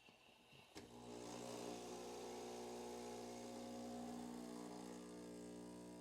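Breville Bambino Plus espresso machine's vibratory pump switching on with a click about a second in, then buzzing steadily as it pulls an espresso shot.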